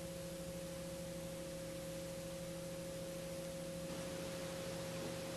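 Faint steady hum made of a few held tones over a light hiss.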